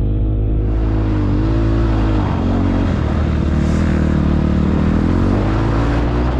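KTM motocross bike's engine being ridden hard, revving up and down: its pitch drops about two seconds in, then climbs again.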